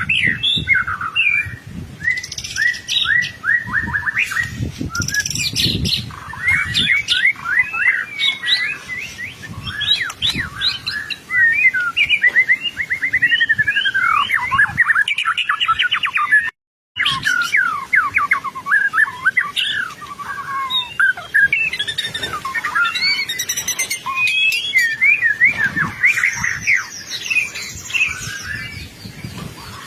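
White-rumped shama singing a long, continuous song of rapidly varied whistles, trills and chattering phrases, with a brief cutout a little past halfway.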